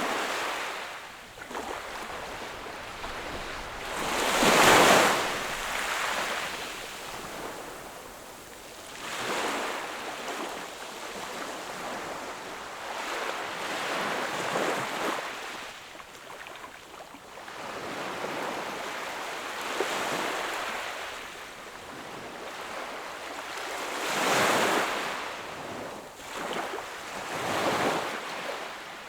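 Small ocean waves breaking and washing up a beach, each surge swelling and falling back every few seconds, the loudest about five seconds in and another strong one near the end.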